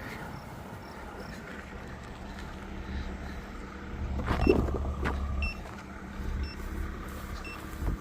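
Vehicle engine idling with a steady low rumble that swells briefly about four and a half seconds in, with faint short beeps repeating about once a second.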